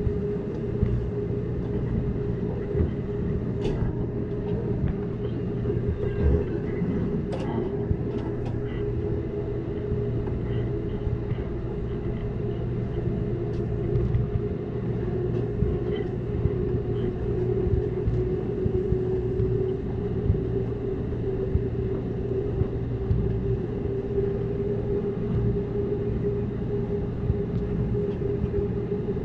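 Amtrak Cascades passenger train running at speed: a steady rolling rumble with a constant hum and a few sharp ticks from the wheels and track in the first third.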